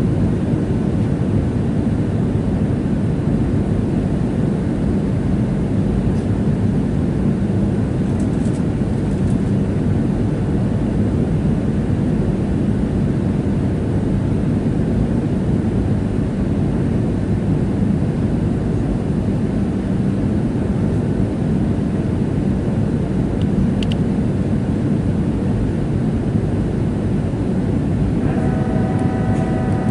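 Steady cabin noise of a Boeing 737-700 airliner: its CFM56 jet engines and the airflow running as an even roar. About a second and a half before the end, a few steady tones join in.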